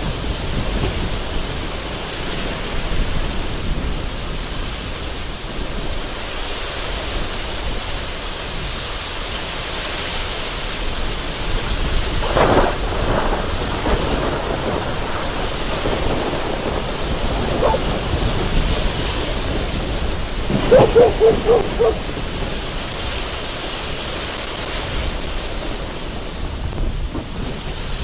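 Heavy rain and gusting wind under a continuous low rumble of thunder. A brief louder sound comes about halfway through, and a quick run of rattling pulses about three-quarters of the way in.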